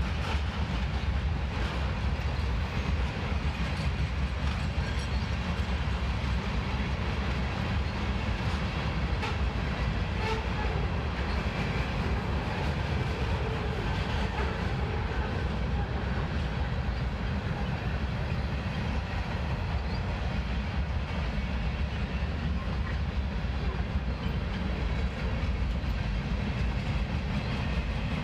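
Union Pacific freight train's covered hoppers and boxcars rolling past: a steady low rumble of steel wheels on rail, with a few faint clicks over the joints.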